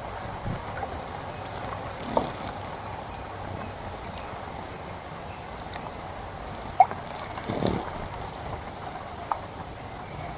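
Water splashing in a garden bird bath as birds bathe: a few short splashes, about two seconds in and again around seven to eight seconds, over a steady hiss. Faint high bird chirps come with the splashes.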